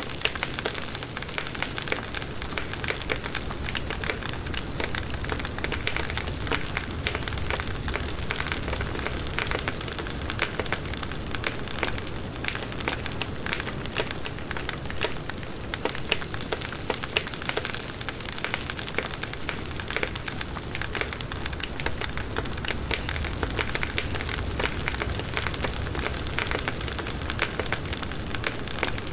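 Firewood burning in a campfire, crackling and popping steadily with many small sharp snaps over a low rushing of flames.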